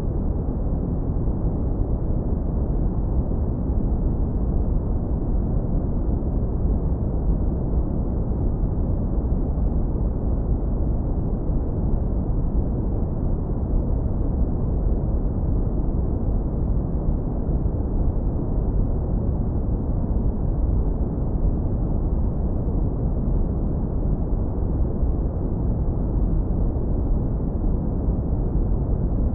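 Steady, unbroken deep brown noise, heavily low-pass filtered so that nearly all of it is a low rumble and the top fades out by about 2 kHz.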